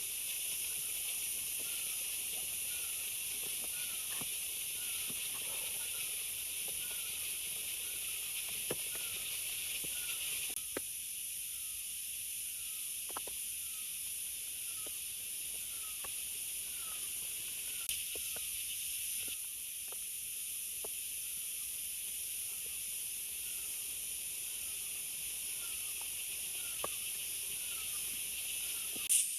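Steady high hiss of forest ambience, with a short falling chirp repeating a little more than once a second from a small calling creature, and a few scattered light ticks.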